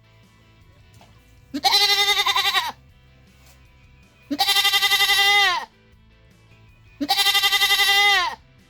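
Goat bleating three times, each call about a second long with a quavering, wavering tone that drops off at the end.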